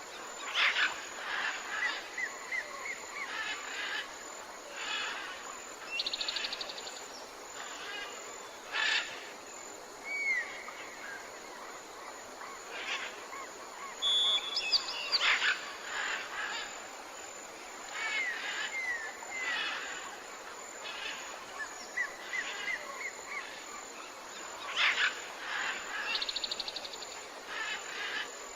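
Forest birds calling over and across each other: short whistled notes, quick chirps and, twice, a fast high trill, over a steady high-pitched background hiss.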